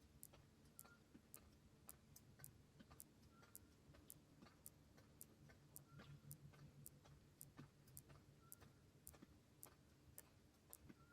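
Faint, even ticking, about two sharp ticks a second, over a low steady hum. A brief higher tone recurs every couple of seconds.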